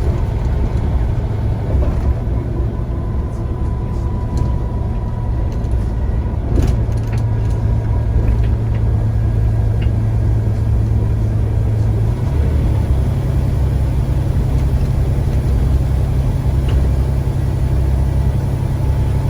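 Diesel engine of a Scania CN94UA single-decker bus running with a steady low drone. The drone steps up slightly in pitch about twelve seconds in.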